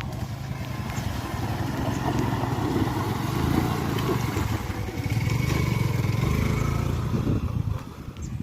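Motorcycle engine running as the bike is ridden over a rough dirt track, pulling harder about five seconds in and easing off near the end.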